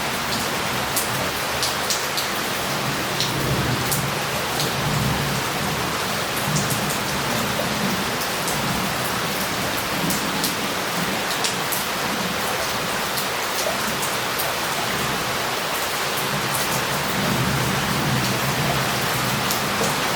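Heavy rain falling steadily on a city street, with sharp ticks of single drops hitting close by. Low thunder rumbles twice, once a few seconds in and again near the end.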